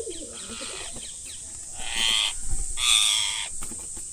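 Parrots calling: light chirps, then two loud harsh squawks about two and three seconds in, each lasting about half a second.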